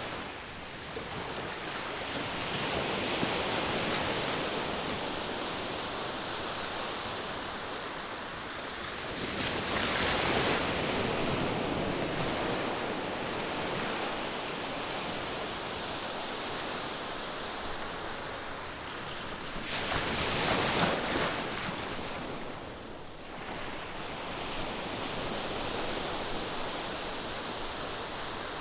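Distant ocean surf: a steady wash of waves breaking on the shore, swelling as waves break about ten seconds in and again, most loudly, about twenty seconds in.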